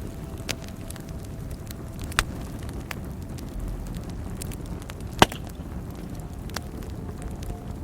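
Wood fire burning with a steady low rumble, broken by sharp irregular crackles and pops, two louder pops about two and five seconds in.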